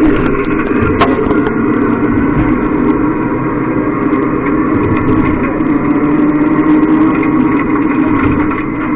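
Rally car engine sound effect played through a coin-operated kiddie ride's speaker, a steady engine drone, with one sharp click about a second in.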